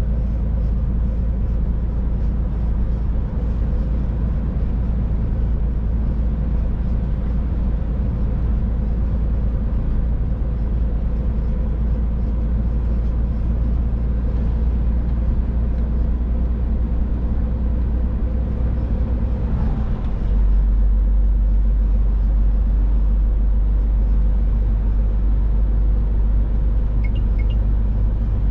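Scania Next Generation truck driving, heard from the cab: a steady low engine and road rumble. About twenty seconds in, the low rumble steps up and stays louder.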